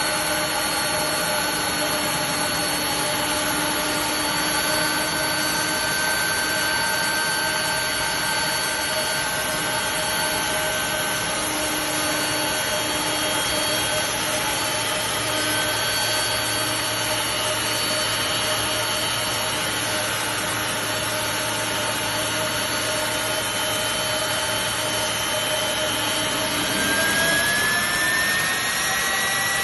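Boeing 747-400 jet engines running steadily at a ground run-up: a loud, even rush of noise with several steady whining tones. Near the end the whine rises in pitch as the engine speeds up.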